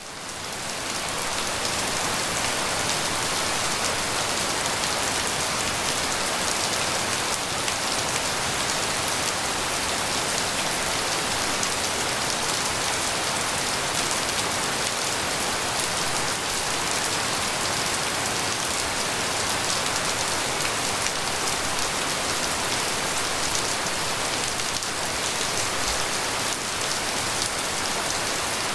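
Tropical rain falling steadily, a dense even hiss of drops that fades in over the first couple of seconds and then holds level.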